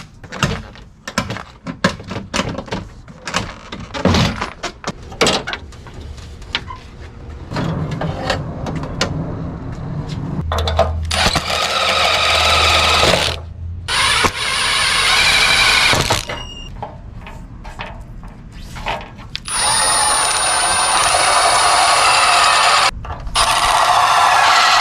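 A power tool runs in four bursts of a couple of seconds or more each, with a high whine, while work is done on a truck door to replace its window motor. Before the bursts there are scattered clicks and knocks.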